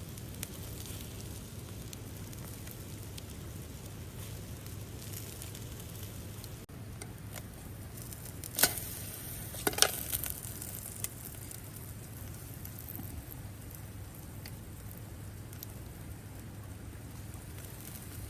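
Campfire burning with a steady hiss and faint scattered crackles, and two sharp, loud cracks a little before the middle.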